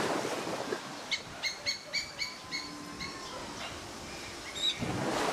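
A bird calling a quick run of about six short, high chirps, about four a second, then a few fainter notes and a brief whistle. A rushing noise swells near the start and again near the end.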